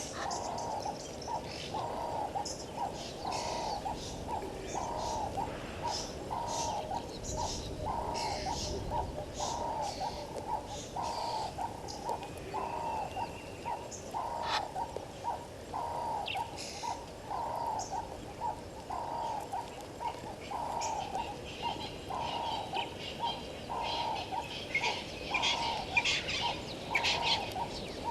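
Birds calling: one bird repeats a low note evenly, about one and a half times a second, while other birds add scattered higher chirps that grow busier near the end.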